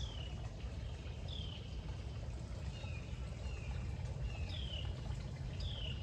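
A songbird calling: short whistled notes that each fall in pitch, repeated about once a second, over a low background rumble.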